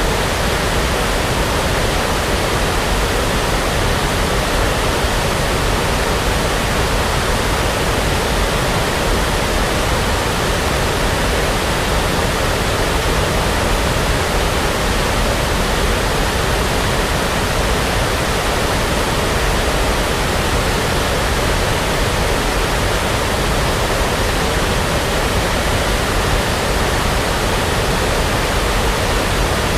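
Steady brown noise for sleep: an even, unchanging hiss and rumble with no breaks or variation.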